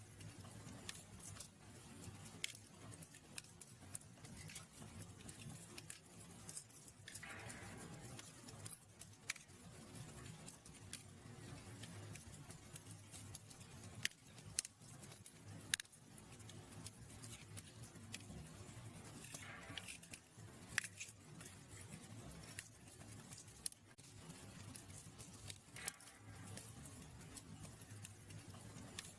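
Wood fire in a fireplace crackling, with scattered sharp pops over a low rumble of flames and two short hisses.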